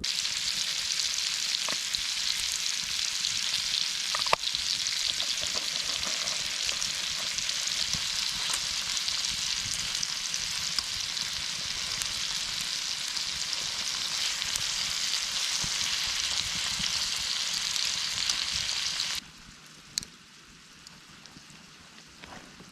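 Food sizzling and frying on a hot cooking surface: a dense, steady hiss with occasional small pops, cut off abruptly about nineteen seconds in.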